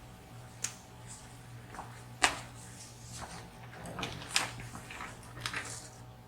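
Scattered clicks and knocks of small objects being handled and moved about during a search for a lost lock pin, with one sharp knock about two seconds in and a cluster of lighter ones later, over a steady low hum.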